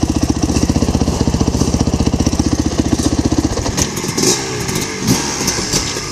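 Dirt bike engine running at a steady rapid beat, which drops away about three and a half seconds in, leaving a fainter, uneven engine sound with some clicks.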